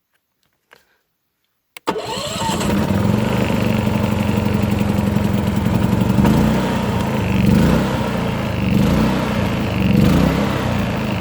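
Predator 3500 inverter generator's 212cc single-cylinder engine starting on its electric push-button start: it catches suddenly about two seconds in and runs, its speed rising and falling as it revs.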